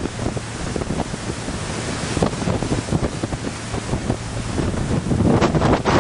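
Wind buffeting the microphone on the open upper deck of a motor yacht running at speed, over the rush of water and the low drone of its engines. The gusts grow louder near the end.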